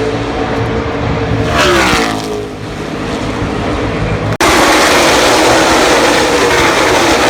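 NASCAR stock cars' V8 engines at full throttle as cars race past; one car's pitch drops as it goes by about two seconds in. After a sudden break about four seconds in, a louder, denser sound as more cars pass.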